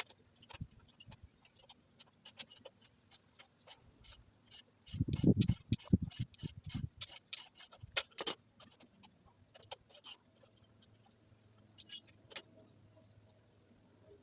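Ratchet wrench clicking in quick, even runs while working fasteners on a Honda Fan 125 motorcycle. A few heavier knocks come in the middle.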